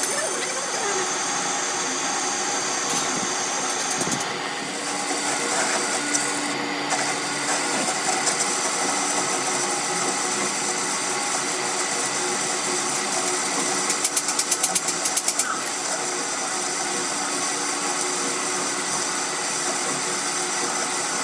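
A machine running steadily, with a quick series of about eight sharp rattling knocks about fourteen seconds in.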